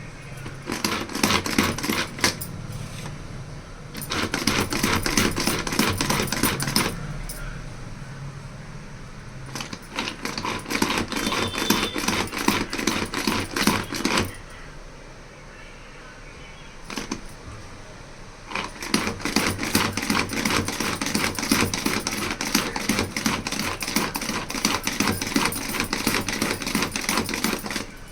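Kitchen utensils clattering in rapid runs of clicks, in four bursts of a few seconds each with quieter gaps between.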